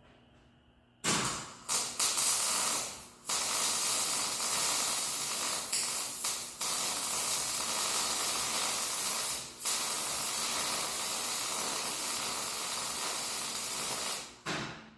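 Welder arcing as a nut is welded onto the end of an old distributor shaft, a steady hiss. It starts about a second in with a few short runs, then one long run with a brief break near the middle, and stops just before the end.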